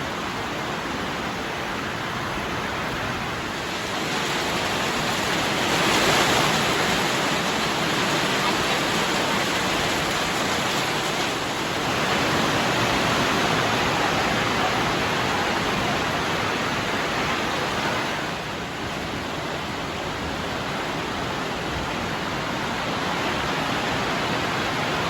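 Heavy rain on a hay-barn roof with no gutter, the water running straight off the roof edge: a steady rushing hiss that swells a little about six seconds in.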